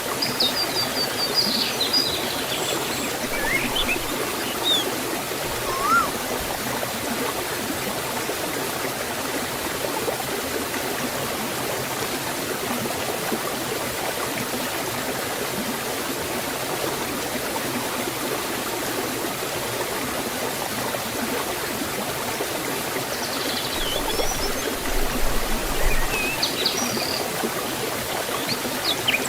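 Forest waterfall and stream rushing steadily. Birds chirp briefly over the water in the first few seconds and again near the end.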